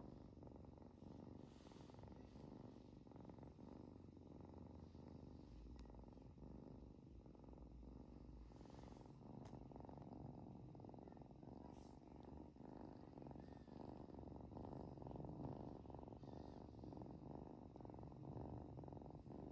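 A domestic cat purring steadily and faintly throughout.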